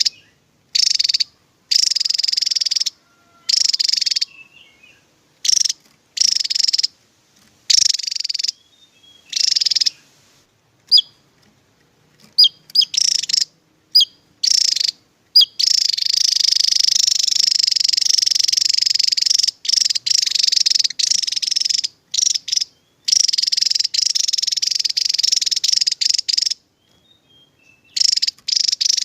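Javan tesia singing: repeated bursts of high, rapid, buzzy trilling song, each about half a second to a second long, with gaps between. Past the middle the song runs almost without a break for several seconds. A few short, thin, sharp notes come between the bursts a little before that.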